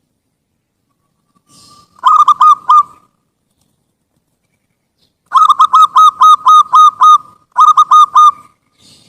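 Zebra dove (perkutut) cooing in quick runs of short, hooked notes: a short run about two seconds in, then a longer run of about eight notes past the middle and a short run near the end.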